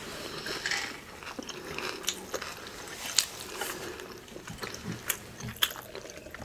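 Quiet chewing of food, with a few small, scattered mouth clicks.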